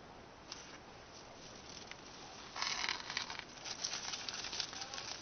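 Crinkly rustling of wrapping, quiet at first, then a busy run of crackles and rustles from about two and a half seconds in.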